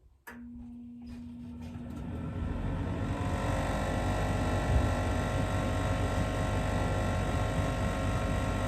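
Comfortmaker gas furnace beginning its startup: a click, then the draft inducer motor spins up over about three seconds and settles into a steady running hum. The inducer is a noisy one that wobbles on mounting screws that won't tighten.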